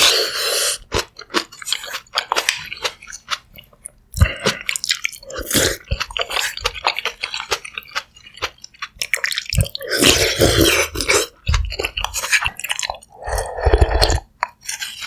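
Close-miked chewing of sundae gukbap, Korean blood-sausage and rice soup: wet mouth clicks with several denser bursts of chewing.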